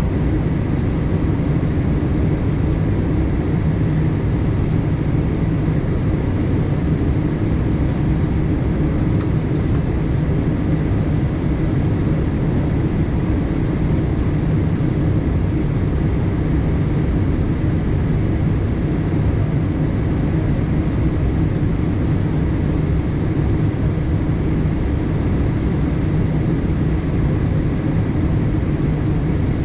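Steady cabin noise inside a Boeing 787-8 airliner: an even, unchanging low drone with a hiss above it.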